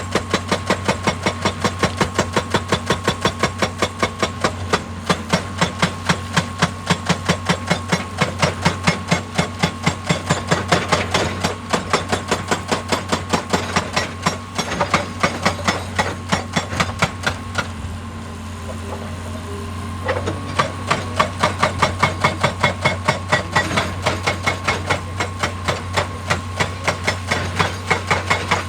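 Excavator-mounted hydraulic rock breaker pounding rock at about four to five blows a second over the steady running of the excavator's diesel engine. The blows stop for about two seconds past the middle, then start again.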